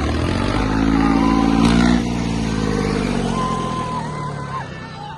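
Tractor diesel engine revving hard under load, its pitch climbing for about two seconds and then dropping away. Thin high whistling tones sound over it in the second half.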